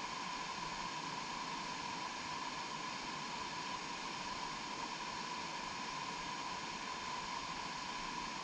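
Steady, even hiss with a faint constant tone in it, without any change or separate event.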